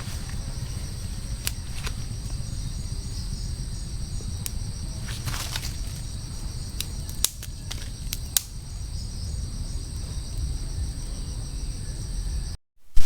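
Insects, cricket-like, calling in a steady high chorus over a low rumbling background, with a few sharp clicks; it all cuts off suddenly near the end.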